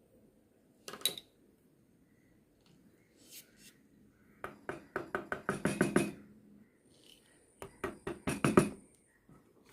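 Tool strikes on wood during carving: a single knock about a second in, then a quick run of about ten taps about halfway through, and another run of about six near the end.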